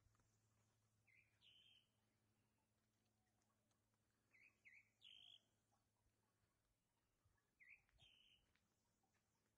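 Faint bird calls: a short phrase of high chirping notes sung three times, a few seconds apart, over a faint steady low hum.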